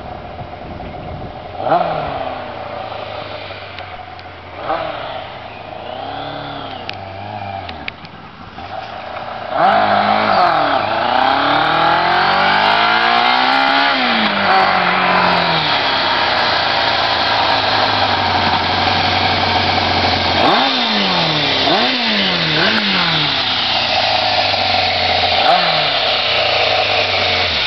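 1995 Yamaha FZR600 sportbike's inline-four engine revving and accelerating, its revs rising and falling repeatedly. It is fainter at first, then much louder from about ten seconds in with a long rising rev. A quick string of throttle blips comes about two-thirds of the way through.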